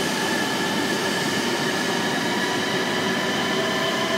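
Shinkansen train pulling out of a station, with E3-series Tsubasa cars rolling past at close range. A steady rumble of wheels and running gear carries several steady whining tones over it.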